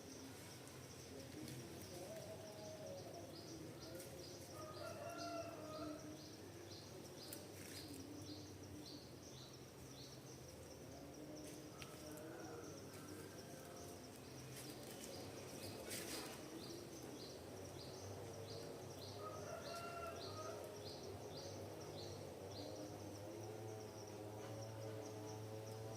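Forest ambience: an insect chirps in a steady high-pitched pulse of about two chirps a second, while birds call intermittently at lower pitches.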